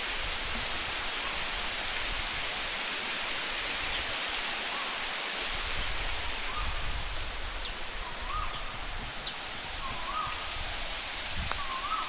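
Steady rushing of a waterfall, an even hiss of falling water. A few faint short rising chirps come through it in the second half.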